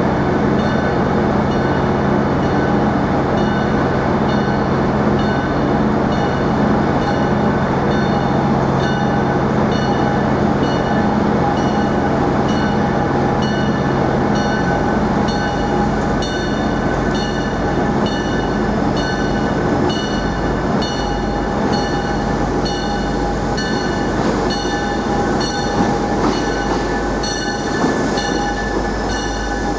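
A train's steady machinery drone, with a regularly pulsing high-pitched whine over it.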